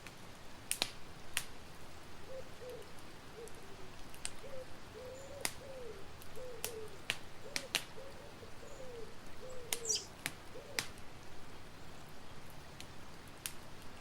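Campfire crackling with scattered sharp pops. Through the middle seconds a bird calls a run of about a dozen short, low, arched notes.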